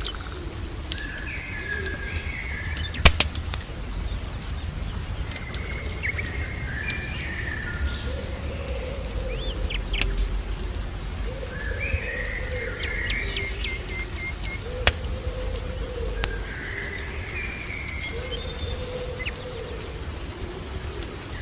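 Doves cooing in repeated low phrases, with smaller birds chirping higher above them. Scattered sharp crackles and a steady low rumble, as from a fireplace burning, run underneath.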